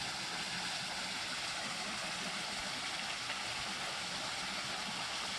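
Steady rush of water from a small, low-running creek waterfall.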